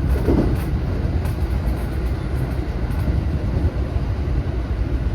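JR West 227 series electric train running on the line, heard from inside the leading car: a steady low rumble of wheels on rail with a few faint clicks.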